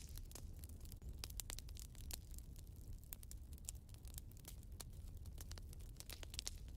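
Wood fire in a fireplace crackling: many small irregular pops and snaps over a low rumble of the flames.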